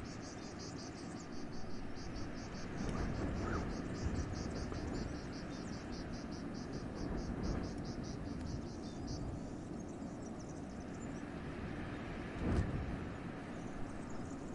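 Wind blowing and gusting through a forest with a low rumble, while a high, even chirping at about four to five a second runs until about nine seconds in. A brief thump about twelve and a half seconds in.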